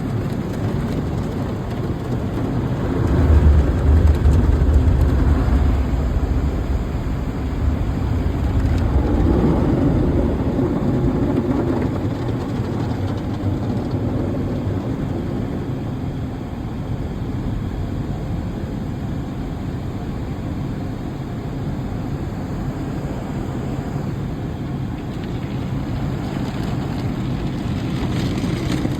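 Car wash running: a steady rush of water spray and machinery with a low rumble, heavier about three to six seconds in.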